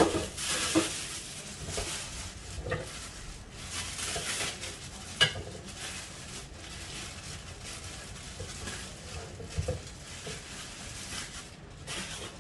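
Food sizzling in a hot pan while being stirred, with a spatula knocking and scraping against the pan now and then, one knock louder about five seconds in. The sizzle stops suddenly near the end.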